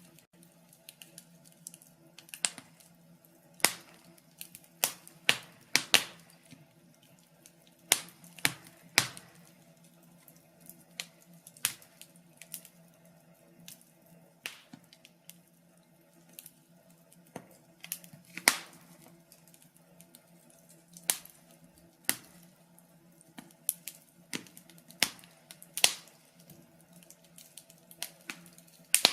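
Wood fire crackling in a fireplace: irregular sharp pops and snaps, several a second at times, a few much louder than the rest, over a faint steady low hum.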